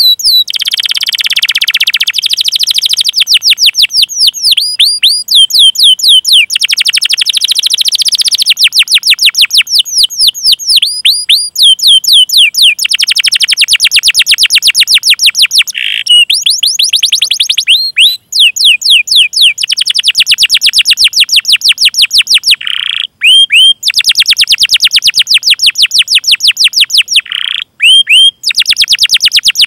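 Domestic canary singing a long, loud song of fast rolling trills: runs of rapid, evenly repeated down-slurred chirps, switching from one trill to the next after brief breaks, with a few short held notes in the second half.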